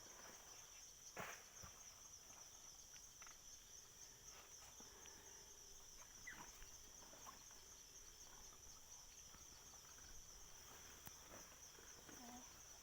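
Faint, steady high-pitched chirring of insects in the field, with a few faint knocks about a second in and scattered later.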